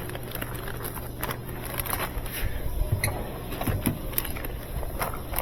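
GE top-load washing machine running with its tub turning: a steady motor hum with scattered clicks and knocks. It turns again now that the failed lid switch has been replaced.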